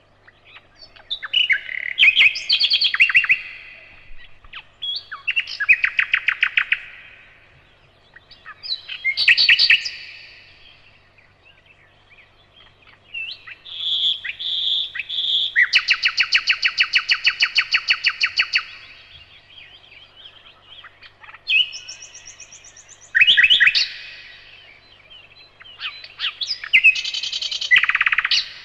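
Nightingale singing: a run of song phrases a few seconds long with short pauses between them, each built of fast repeated notes and trills. In the middle, three clear whistled notes lead into a long, rapid trill.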